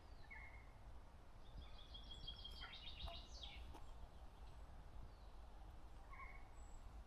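Faint songbird calls: a rapid run of high notes in the middle, with short chirps near the start and near the end, over a steady low rumble.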